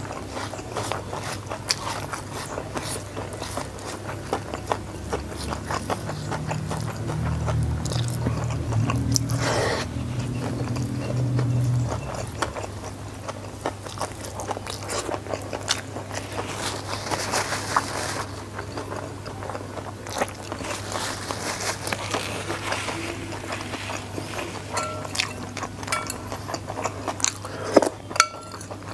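Close-miked chewing and mouth sounds of a person eating by hand, with fingers scraping food around a stone mortar of sambal terasi. A low hum runs for several seconds in the middle.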